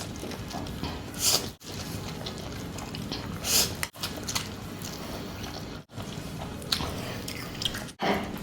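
Close-miked eating of spicy noodles: biting and chewing with a few louder bursts, broken by abrupt drop-outs several times where clips are cut together.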